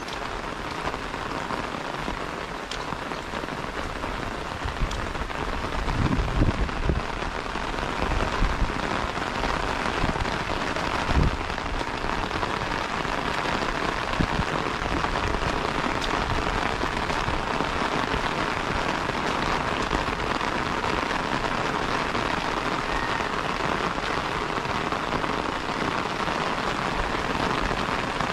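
Steady rain falling, drumming on an open umbrella held over the microphone. A few dull low thumps come between about six and eleven seconds in.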